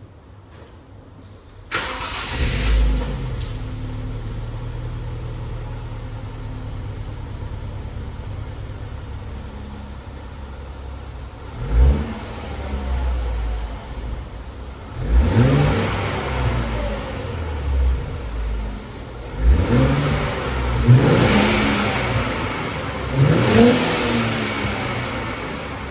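Stock exhaust of a 2022 Nissan Fairlady Z RZ34's 3.0-litre twin-turbo V6, started up about two seconds in and settling to a steady idle. It is then blipped with the throttle four times in the second half, each rev rising and falling back to idle.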